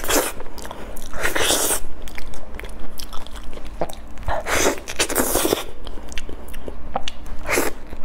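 Close-miked mouth sounds of soft, ripe durian flesh being bitten off and chewed, coming in several bursts with small clicks between them.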